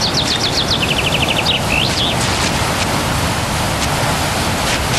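A songbird sings one fast trilled phrase: rapid notes stepping down in pitch, ending in a short flourish about two seconds in. A steady hiss runs under it.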